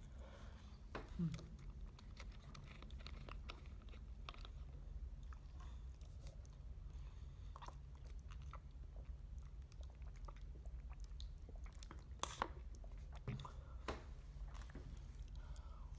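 Quiet chewing and biting of food, with scattered small clicks and a few sharper ones near the end, over a steady low hum.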